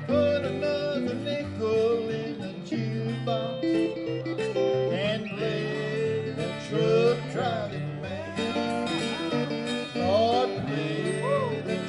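Country instrumental outro on acoustic string instruments, with guitar picking and notes that bend and slide.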